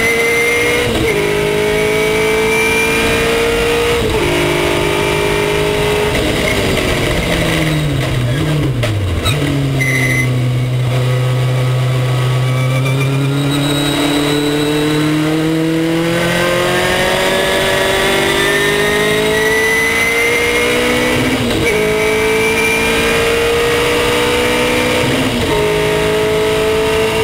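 Race car engine heard from onboard under hard acceleration. Its pitch climbs through the gears with quick drops at upshifts about a second and four seconds in. It falls away on braking and downshifts near nine seconds, runs low through a slow stretch, then climbs again with upshifts near the end.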